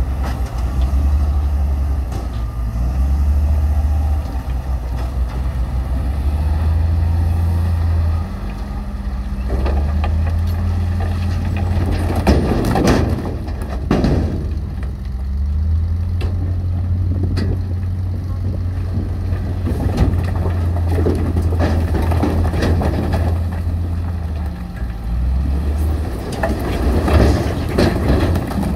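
Heavy diesel construction machinery, bulldozer and dump truck, running with a low engine drone that rises and falls as it works. Rough bursts of crunching and scraping stone come about halfway through and again near the end.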